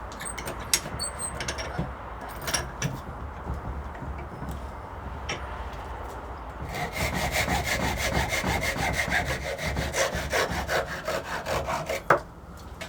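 Saw cutting through a block of wet wood. A few scattered knocks and scrapes come first; then quick, even back-and-forth strokes start about seven seconds in and stop shortly before the end.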